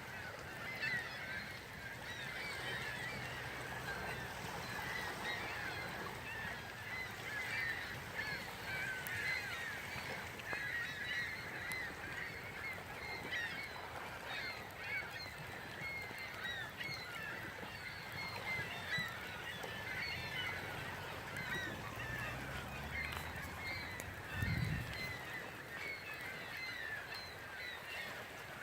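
A flock of birds calling continuously, many short overlapping calls, with one low thump near the end.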